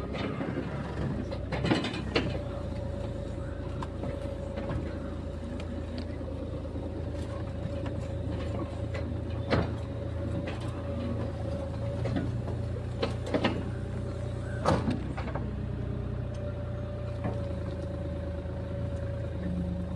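Bobcat E37 mini excavator running steadily, a low engine hum with a steady whine over it. Sharp knocks come about two seconds in, near ten seconds, and twice more around thirteen to fifteen seconds.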